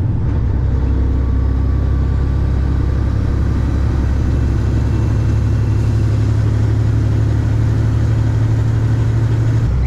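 A vehicle engine running steadily with a low drone. It shifts in tone just before the end.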